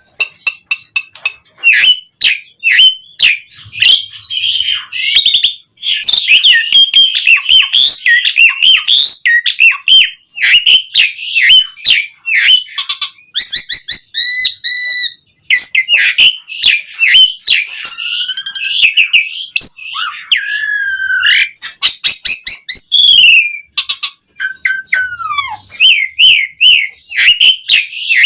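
Asian pied starling (jalak suren) singing a long, varied song without pause: repeated whistles and rapid chattering phrases, a fast trill about halfway through, and falling whistled glides later on.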